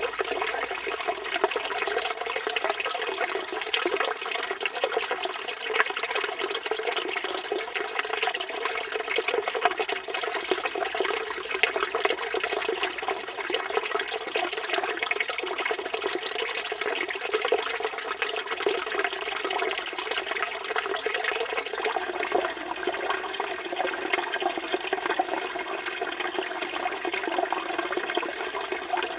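Water running steadily from the spout of a village stone fountain and splashing into the basin below.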